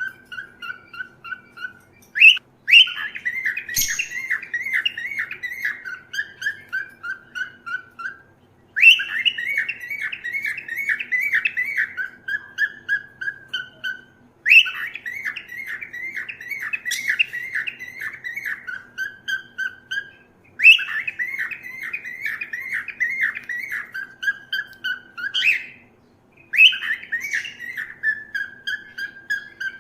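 Pet cockatiel calling in a repeated phrase: a fast run of chirps that steps down in pitch over about five seconds, then starts again after a short pause, five times over.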